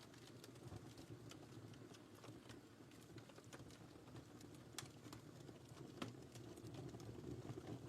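Fire crackling in a fireplace: a low, steady rumble of flames with frequent small crackles and sharper pops, the loudest two about five and six seconds in.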